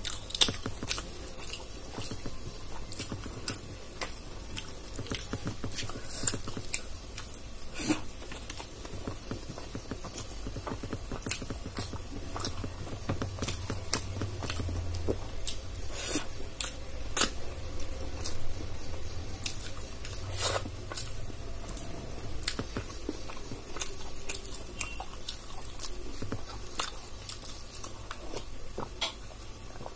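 Close-miked eating: chewing and mouth clicks as rice and dal are eaten by hand, with many short sharp smacks scattered throughout.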